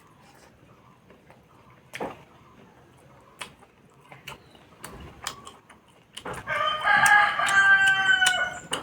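A rooster crows once, loud and drawn out for about two and a half seconds, starting about six seconds in. Before it there are only a few faint clicks.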